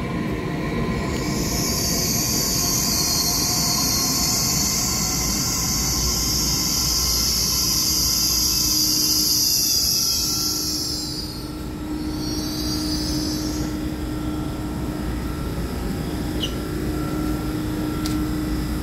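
EMU3000 electric multiple-unit train slowing to a stop at the platform, with a loud high-pitched squeal from about a second in until about eleven seconds, a shorter squeal shortly after, and then a steady hum as it comes to rest.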